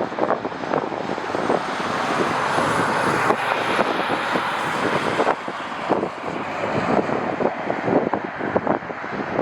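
Jet airliner engine noise, a steady rush with a faint high whine that rises and then falls in the first half, while gusty wind buffets the microphone in irregular crackles.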